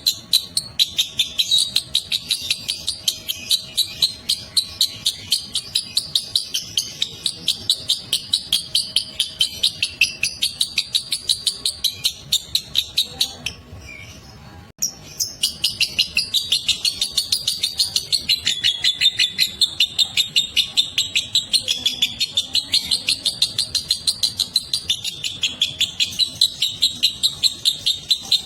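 Lovebird's long chattering 'ngekek' song: a fast, unbroken string of sharp, high chirps several times a second. It breaks off for about a second midway, then carries on.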